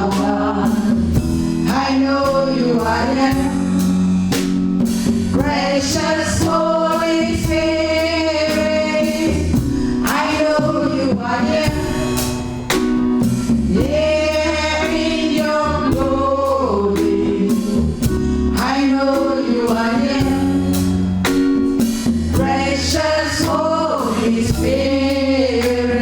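Live gospel music: a choir singing over bass and a drum kit keeping a steady beat.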